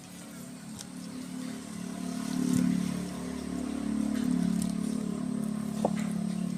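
A low, steady engine hum that grows louder from about a second and a half in and stays up, with one short sharp click about six seconds in.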